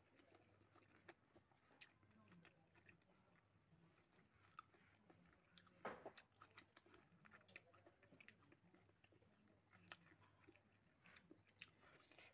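Faint chewing and wet mouth sounds of a person eating pork hock curry and rice by hand, scattered soft clicks, with one louder smack about six seconds in.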